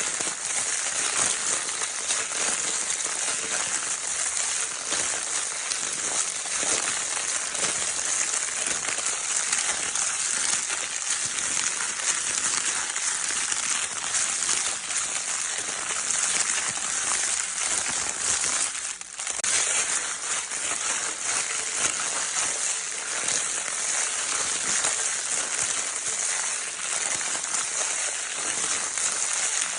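Crinkle paper in a baby's crinkle toy being rustled continuously: a dense, steady crackling with one brief pause about 19 seconds in.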